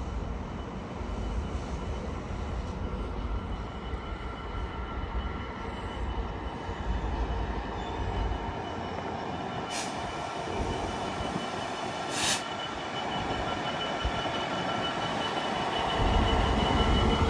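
A train running on the track with a low rumble and a steady, thin high-pitched squeal. Two short sharp clicks come near the middle, and the rumble grows louder near the end.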